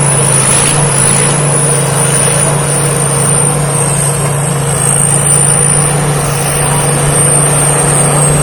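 Thai Seng Yont rice combine harvester running steadily while harvesting, its engine giving a constant low hum with a thin, slightly wavering high whine above it.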